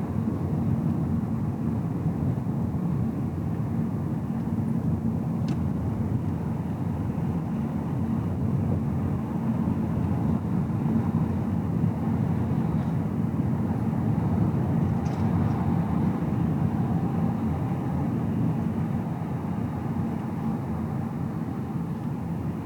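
Car running on the road, heard inside the cabin: a steady low rumble of tyres and engine, with a faint higher hum and a few light ticks.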